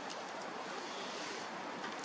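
Bonfire burning: a steady rushing noise with a few faint sharp crackles.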